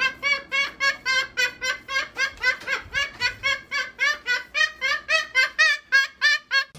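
A long run of quick, evenly paced, high-pitched laughing 'ha-ha' syllables, about four to five a second.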